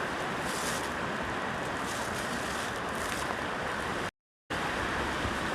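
Steady outdoor rushing noise with no distinct events, broken by a short total dropout about four seconds in.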